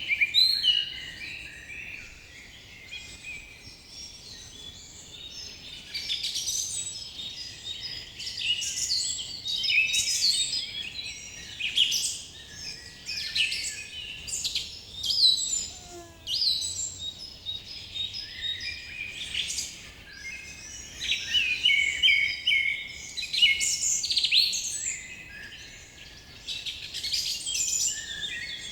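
Many forest birds chirping and singing at once, with short calls overlapping one another.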